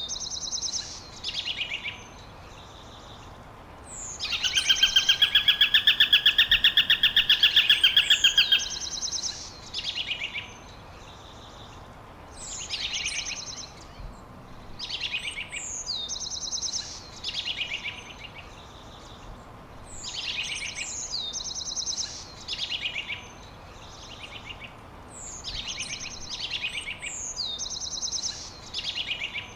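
Songbird singing the same short, high phrase of quick downward-sliding notes about every five seconds. About four seconds in, a loud rapid trill cuts across it for roughly four seconds.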